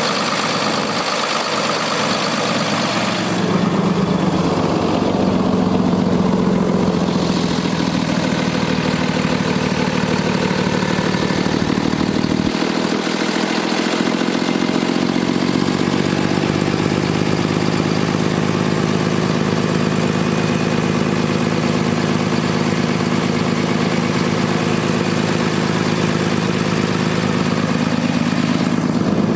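Cummins ISB diesel engine of a Freightliner M2 dump truck idling steadily, getting a little louder and fuller about three and a half seconds in.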